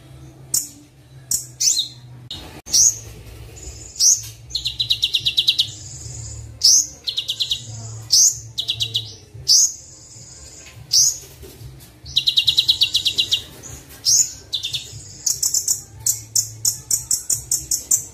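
Kolibri Wulung sunbird song as a training recording: quick high-pitched chirps and several fast rattling trills about a second long, in short bursts with brief gaps, over a faint low hum.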